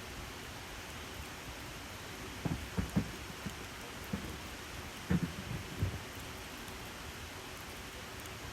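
Wood campfire burning with a steady hiss, broken by two short clusters of low pops and knocks, about two and a half and five seconds in.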